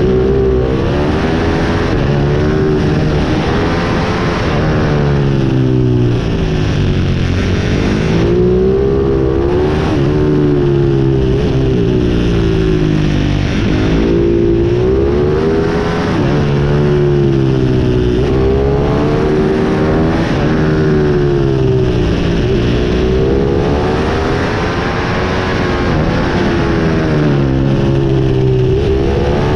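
Pit bike engine revving hard, rising and falling in pitch again and again every two or three seconds as the throttle is opened and closed.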